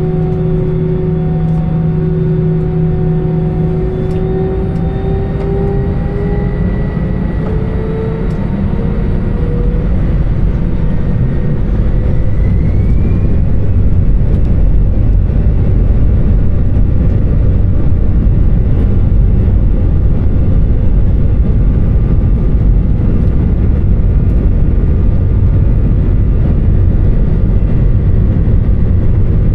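Airbus A320 jet engines heard from inside the cabin, their whine rising in pitch as they spool up to take-off power. A deep, steady rumble then builds over several seconds and holds, typical of the take-off roll.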